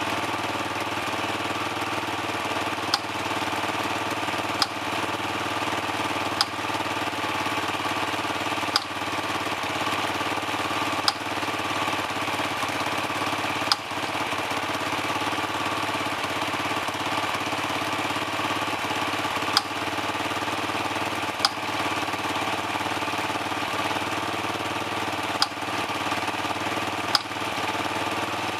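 Dirt bike engine idling steadily while warming up, with a sharp crack every few seconds at uneven gaps.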